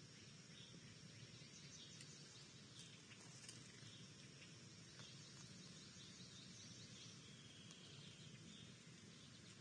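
Faint backyard ambience: scattered high bird chirps and calls, with a short trill about three quarters of the way through, over a steady low hum.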